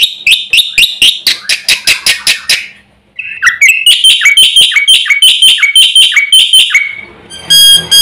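Black-winged myna (jalak putih) in full song, loud and rapid: a fast string of chirps at about five a second, a short break about three seconds in, then another run of repeated shrill chirps. Near the end it switches to clear, ringing whistled notes.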